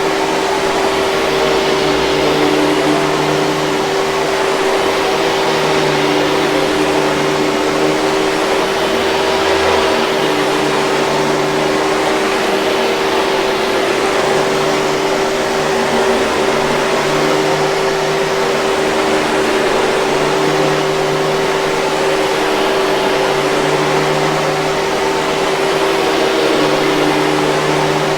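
Hoover 5000 Series canister vacuum cleaner running steadily: a constant motor whine over rushing air noise, with a slight waver in its lower hum every few seconds.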